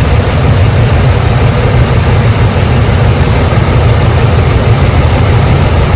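Jeep Liberty V6 engine idling with a steady, loud low rumble while it misfires on cylinder 2, a fault the mechanic traces to a failed ignition coil.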